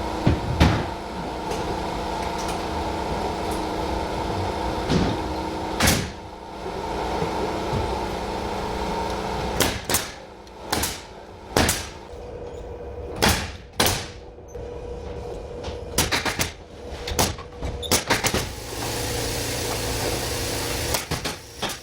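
Interior carpentry work on a ceiling: a steady machine hum with a few knocks, then a run of sharp, irregular nailing impacts about a second apart, and a hiss near the end.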